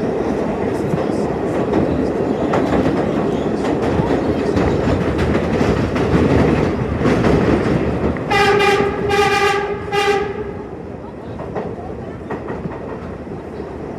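R33 Redbird subway train running at speed in the tunnel, wheels clattering over the rails. About eight seconds in its horn sounds three short blasts, the middle one longest, after which the running noise drops.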